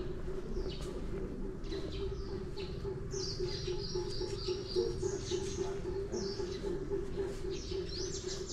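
Birds chirping in repeated short, high, falling phrases, over a steady low hum.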